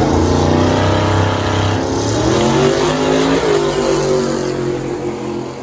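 Drag-racing car under full throttle on the strip: the engine is loud, its pitch climbs and then drops sharply once at a gear change, and it fades toward the end as it pulls away down the track.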